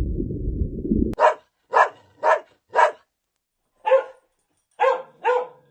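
A low rumbling noise that cuts off suddenly about a second in, followed by a dog barking: four evenly spaced barks about half a second apart, a short pause, then three more.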